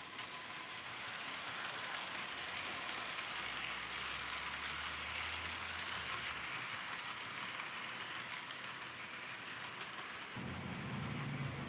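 HO scale model train running slowly on the track: a steady rolling hiss of the small metal wheels on the rails, with a low motor hum under it for a few seconds in the middle and again near the end.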